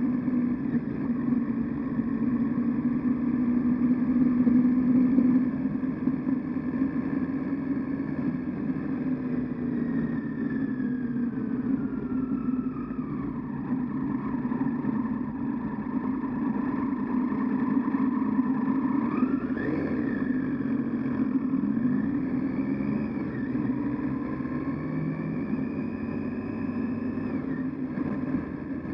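Triumph Tiger 800XC's three-cylinder engine running under way, the engine note falling as the bike slows about halfway through, then rising again twice as it picks up speed.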